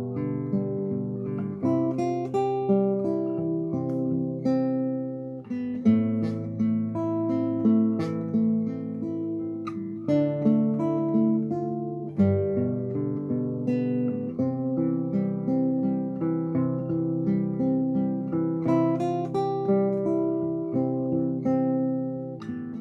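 Solo classical guitar playing a fingerstyle arrangement: plucked melody over bass notes and arpeggiated chords, with the occasional strummed chord.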